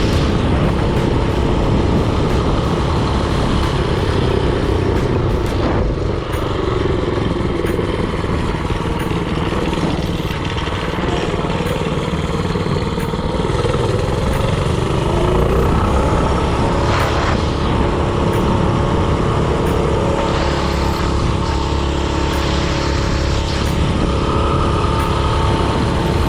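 Predator 224cc single-cylinder four-stroke engine on a mini-bike running under way, with the engine speed dipping and rising again about halfway through.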